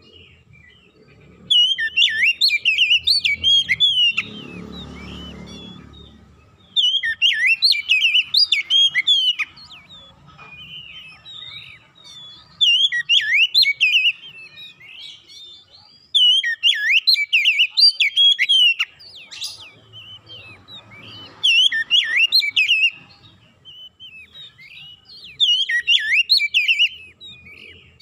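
Oriental magpie-robin (kacer) singing in repeated bursts of rapid, varied whistled notes. Each phrase lasts two to three seconds, with short pauses between.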